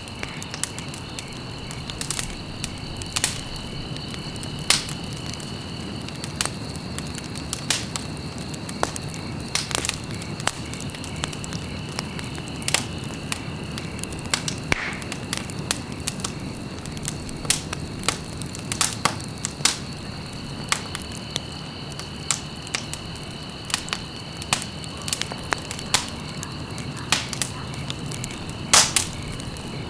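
Wood fire burning in a fireplace: frequent sharp crackles and pops, a few louder ones, over a steady low rushing bed. A thin, steady high whine sits in the background, dropping out for a while in the middle.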